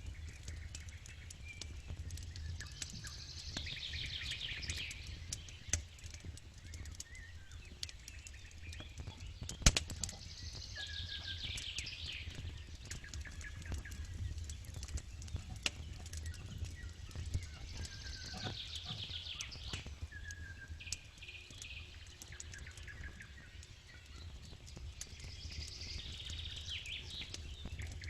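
Outdoor campfire ambience: a songbird sings a high trilled phrase about every seven seconds over crackling clicks and a low steady rumble, with one sharp knock a little under ten seconds in.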